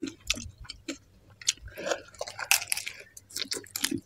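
Crisp panipuri shells crunching and being chewed close to the microphone: a run of irregular sharp crackles.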